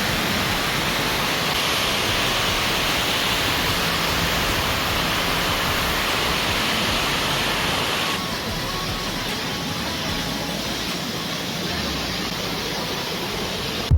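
Steady rush of water falling at a waterfall. It drops a little in level about eight seconds in.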